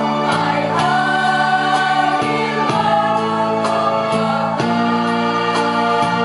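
Choir singing with electronic keyboard accompaniment: sustained chords that change every second or so over a steady beat.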